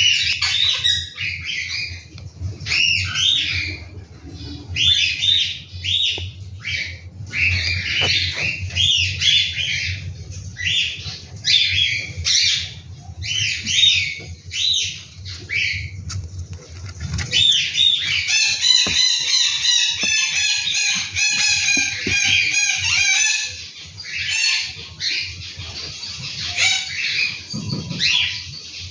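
Cockatiels calling: a run of short, repeated chirps and squawks, then about two-thirds of the way through a longer call with several held pitches lasting around five seconds.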